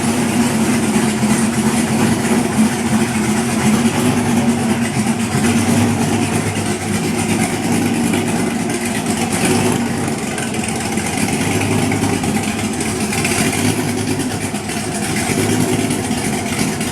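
A 1968 Camaro's LS1 5.7-litre V8, freshly swapped in, running at a steady idle. The owner says it runs a little rough, as if still learning how to idle.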